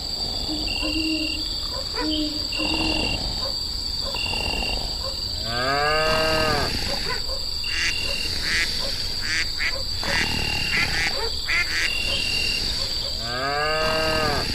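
Outdoor animal sounds: a steady high insect-like drone with a short call repeating about once a second, and two drawn-out rising-and-falling animal calls, one about six seconds in and one near the end.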